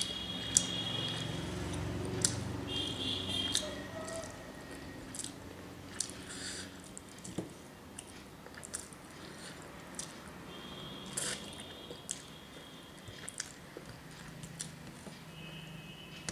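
Close-up mouth sounds of chewing rice and fish, with wet squishing as rice and fish are mixed by hand on a steel plate and scattered sharp clicks against the plate.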